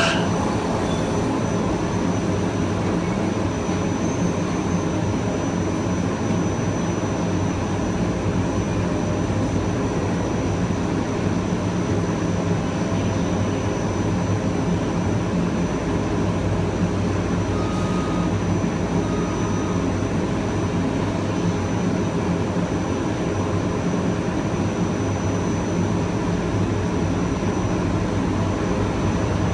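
Kawasaki M9 electric multiple unit running at steady speed, heard on board: an even rumble of wheels on rail with a constant low hum and a thin, steady high tone from its AC traction motor drive.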